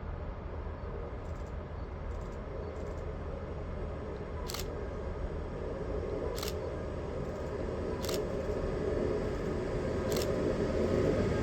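A train approaching, its low rumble slowly growing louder, with four sharp clicks about two seconds apart.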